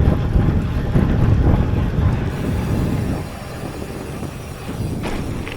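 Wind rumbling and buffeting on the microphone of a moving bicycle, mixed with riding noise; it eases after about three seconds.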